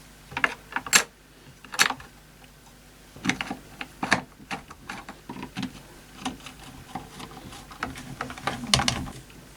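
Irregular clicks, taps and knocks of a portable radio's case and small parts being handled and fitted during reassembly. There are two sharp clicks about a second in and a cluster of knocks near the end.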